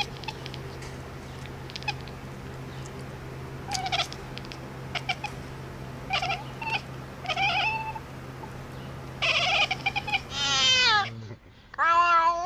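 Domestic cat making a string of short meows and chirps over a steady low hum, then a long meow that falls in pitch. After a break, a loud drawn-out meow comes near the end.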